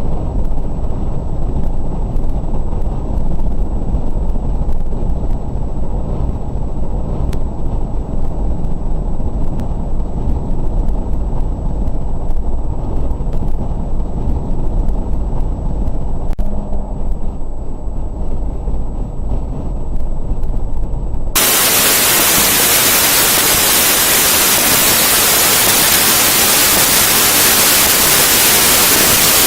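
Low, steady rumble of a car driving, heard through a dash cam, which about two-thirds of the way through cuts off abruptly into a loud, steady hiss of static: the dash cam's corrupted audio.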